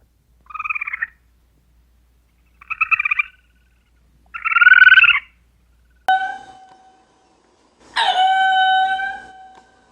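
Animal calls: three short rattling calls in the first five seconds, then two long, steady, pitched calls, the first starting suddenly about six seconds in and the second about eight seconds in.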